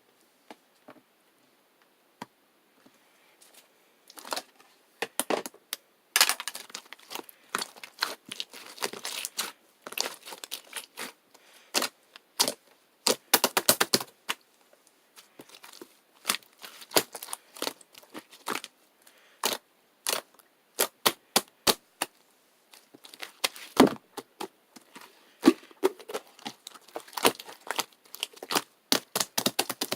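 Blue and silver slime being handled and squeezed by hand, making many sharp, irregular clicks and pops. It is nearly silent for the first few seconds, then the popping comes thick and fast.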